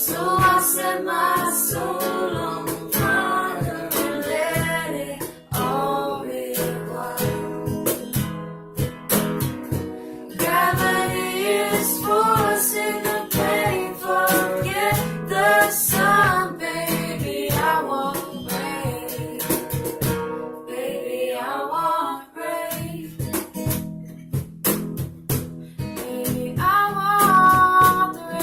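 Acoustic guitar strummed and plucked under a singing voice, with the voice dropping out for brief gaps.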